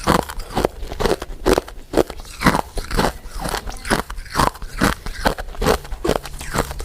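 Close-miked chewing of powder-coated mint sweets, crisp crunching bites repeating at about two a second.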